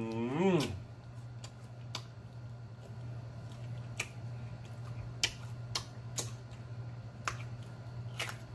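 Close-miked eating of a sauced hot chicken wing: sharp wet lip-smacks and chewing clicks about once a second. It opens with a short hummed "mmm" of enjoyment that rises and falls, over a steady low hum.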